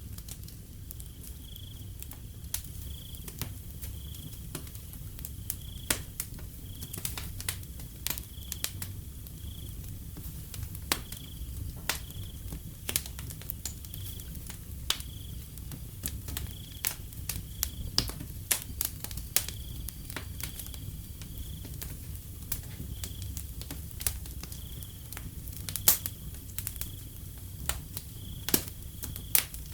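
Wood fire crackling with sharp, irregular pops over a steady low rumble, while a cricket chirps high and evenly about once a second.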